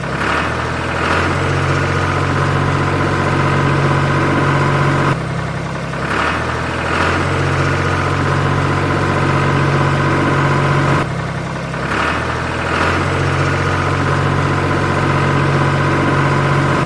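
Tractor engine idling steadily, in an identical stretch that repeats about every six seconds, with a brief dip in level each time it starts over: a looped engine sound.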